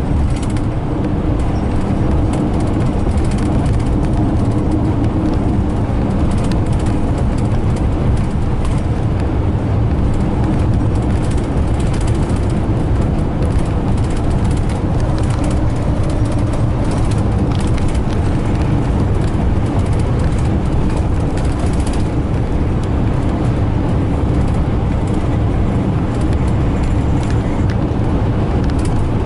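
Steady road and engine noise of a vehicle heard from inside the cabin, a low rumble with a faint steady hum.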